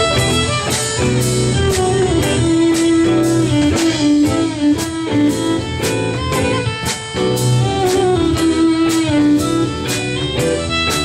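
Live rock band playing an instrumental passage between sung lines: an electric guitar lead over a steady drum beat and bass.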